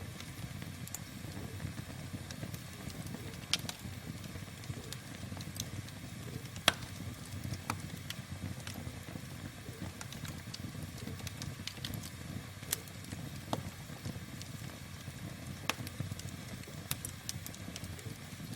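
Campfire burning: a steady low rumble of flames with irregular sharp crackles and pops from the burning wood, one pop standing out about a third of the way through.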